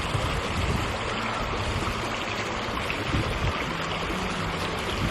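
Small mountain stream rushing and trickling in a steady flow.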